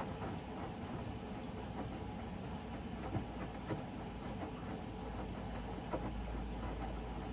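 Hoover front-loading washing machine in its wash phase, the drum tumbling wet laundry with a low motor hum that grows stronger about five seconds in. A few short knocks sound, around three seconds in and again near six seconds.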